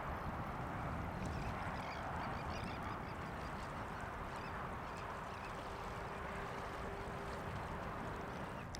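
Outdoor waterfowl ambience: a steady jumble of ducks and geese calling, with a faint steady hum joining a few seconds in.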